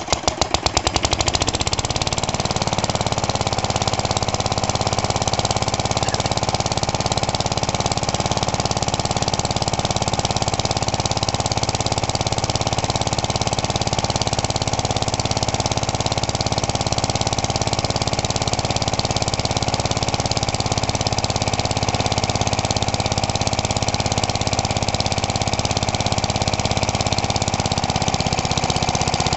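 Hayter Hayterette mower's engine catching on an unprimed cold start. It fires unevenly for about two seconds, then settles into a steady run.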